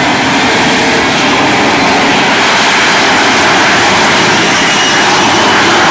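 The Shockwave jet truck's three J34 jet engines running, a loud, steady jet rush that grows somewhat brighter a few seconds in.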